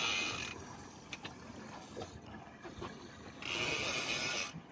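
Big-game fishing reel working under a hooked shark's load, with two whirring bursts about a second long, one at the start and one near the end.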